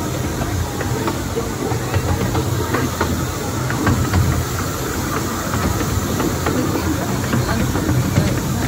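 Train running on the Bure Valley Railway's 15-inch-gauge line: a steady low rumble under a hiss, with many irregular clicks of the wheels on the rails.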